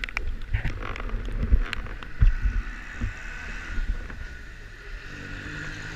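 Vehicle on the move in the rain: a steady low rumble, a few short ticks in the first two seconds, and a steady hiss setting in about three and a half seconds in.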